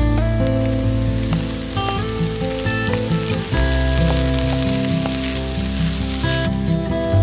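Diced potatoes and onions sizzling as they fry in a wok, stirred with a wooden spatula. The sizzle is strongest from about a second in and drops away near the end, over background music with sustained notes.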